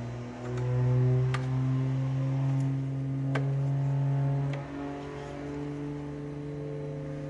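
Electric engine cooling fan of a Mercedes S350 W222 running with a steady motor hum whose pitch shifts up and down in steps as its speed changes, with a few light clicks. The fan runs on uncommanded, a sign of a LIN bus fault that shows a bad signal on the line.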